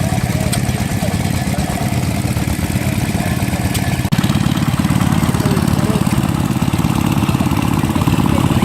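An engine running steadily with a fast, even beat, with faint voices behind it; the sound breaks off abruptly about four seconds in and comes back louder.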